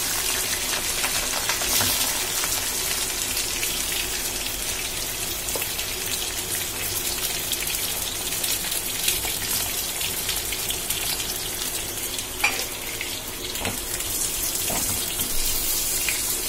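Brinjal and potato slices frying in hot oil in a kadhai: a steady sizzle throughout, with a few faint knocks past the middle.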